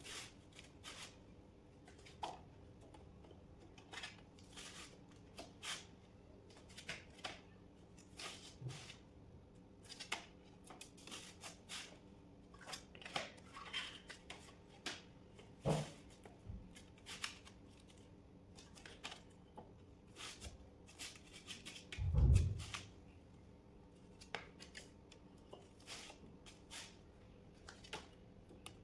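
Hand work on parts and tools: scattered clicks, taps and rustles over a faint steady low hum, with one heavier thump about 22 seconds in.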